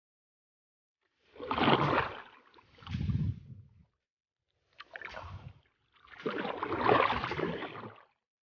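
Four bursts of wind and water noise on a small boat, each one to two seconds long, with silence between them.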